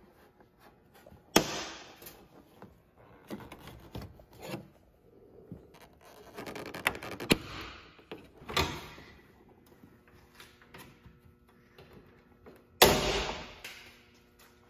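Plastic retaining clips on a truck's front grille being worked and popping loose: two sharp snaps, one about a second in and a louder one near the end, with smaller clicks and plastic rubbing between.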